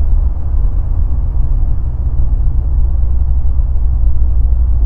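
Light aircraft's engine and propeller droning steadily in flight, a low rumble heard from inside the cockpit.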